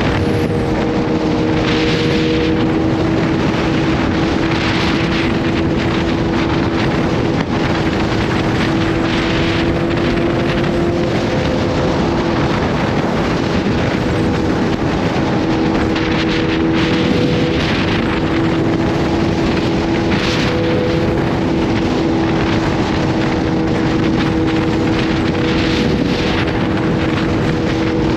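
Kawasaki Z H2's supercharged inline-four engine running at a steady, nearly unchanging engine speed while riding, with wind rushing over the microphone.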